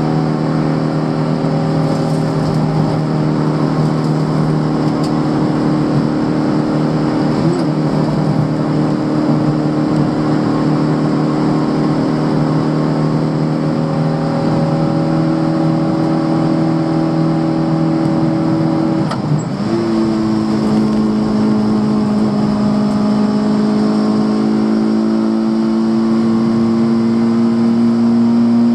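Fiat Cinquecento 900's small four-cylinder engine running hard at a steady high pitch, heard onboard. The pitch wavers briefly about seven seconds in, dips and jumps to a higher note about two-thirds of the way through, then slowly climbs.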